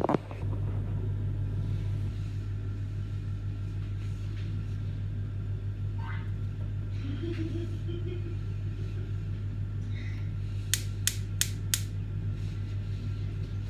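A steady low hum, with a few faint clinks in the middle and four sharp clicks in quick succession about eleven seconds in.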